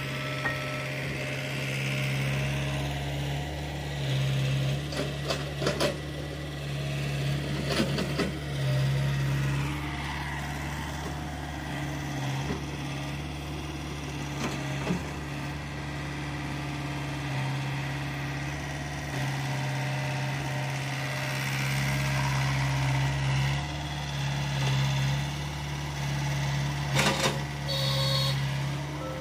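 Diesel engine of earthmoving machinery running steadily, its note swelling and easing every few seconds as it takes load. A few sharp knocks and clanks come through, a handful near the start and a pair near the end.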